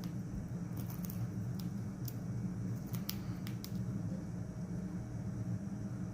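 Cockatiel husking millet seeds with its beak: a scatter of short, sharp clicks, bunched around a second in and again around three seconds in, over a steady low rumble.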